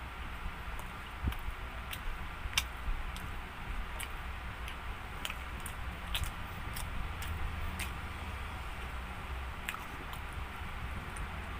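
Close-up chewing of pizza crust: irregular small clicks and crunches from the mouth over a steady low hum.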